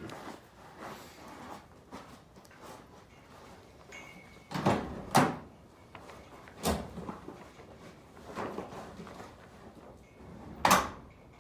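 A few separate clunks and knocks, two close together near the middle and one more near the end, with no engine running or cranking.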